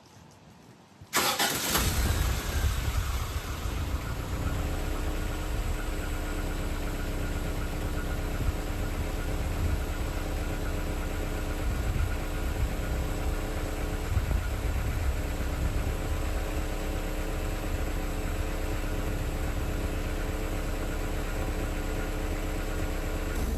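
1986 Toyota Van's engine cold-starting after sitting about 18 hours: it fires about a second in, runs a little louder for the first couple of seconds, then settles into a steady idle.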